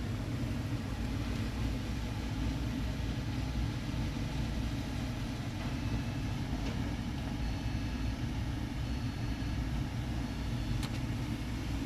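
Steady low rumble of a car engine idling. A few faint short high tones come in past the middle, and a single sharp click sounds near the end.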